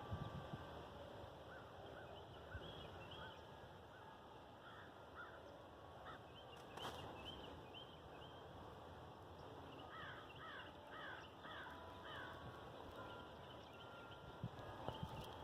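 Faint birdsong: several birds giving short chirps and whistles, with a quick run of descending notes about ten seconds in.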